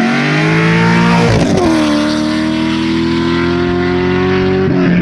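Car engine accelerating hard. Its pitch climbs, drops sharply at a gearshift about a second and a half in, then climbs again through the next gear.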